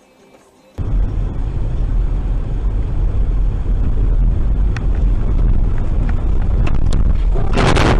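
Car interior road and engine noise picked up by a dashcam: a steady low rumble that starts abruptly about a second in, with a few light clicks. A louder rush of noise rises near the end.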